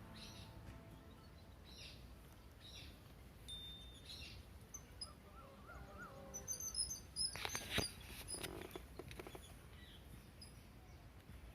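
Faint bird chirps, short notes repeated about once a second over a quiet outdoor background. A louder burst of crackling and rustling comes a little past halfway.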